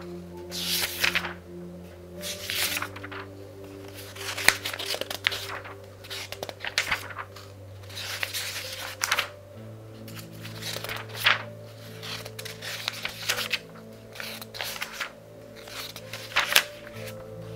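Pages of a very thick book turned quickly one after another, each turn a short papery rustle and flick, about one a second. Soft sustained background music plays underneath.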